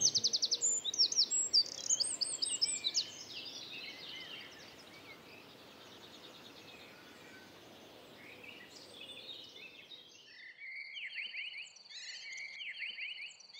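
Songbirds singing outdoors: a burst of loud, busy chirping for the first three seconds, then fainter calls over a quiet background hiss, and near the end a few quick, repeated trilled phrases.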